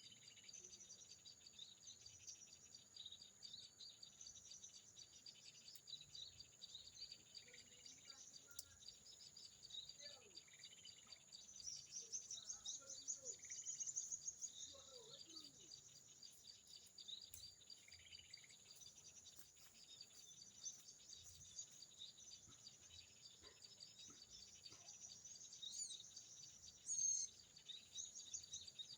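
Small birds chirping in quick high-pitched series over a steady high insect drone, faint overall, with a louder chirp near the end.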